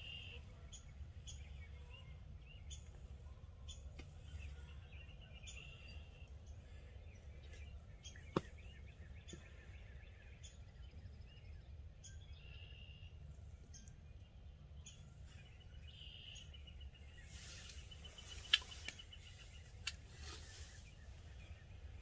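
Songbirds chirping and trilling at intervals over a low steady background rumble, with a couple of sharp clicks, the loudest near the end.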